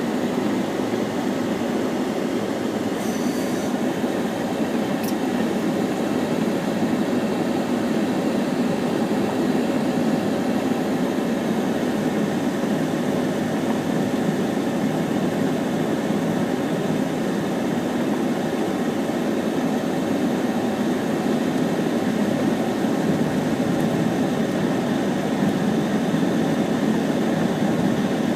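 Steady rumbling noise inside a car, its level unchanging throughout.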